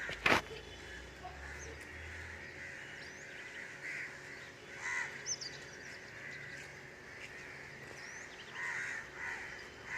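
Crows cawing a few times, spread out, with faint high chirps of small birds in the background. A single sharp knock just after the start.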